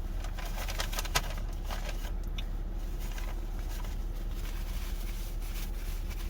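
A person chewing food, with soft wet clicks and crackles in the first couple of seconds and a sharper click just after a second in, over a steady low hum.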